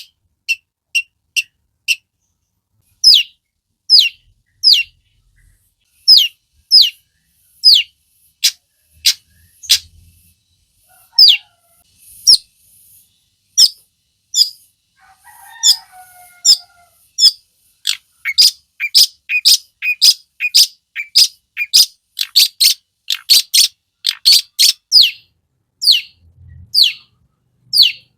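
Long-tailed shrike (cendet) singing a run of short, sharp, quickly falling high notes. The notes are spaced out at first, then come rapidly and almost without a break in the latter part.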